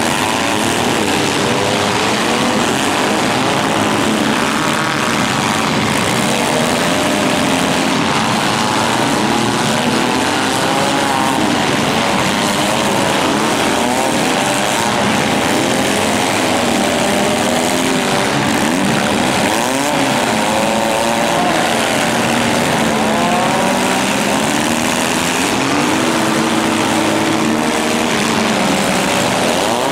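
Several demolition-derby compact cars' engines revving at once, their pitches constantly rising and falling over one another.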